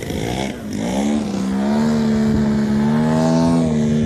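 Radio-controlled model airplane's motor and propeller running in flight. The pitch rises in the first second or so, then holds at a steady buzzing drone.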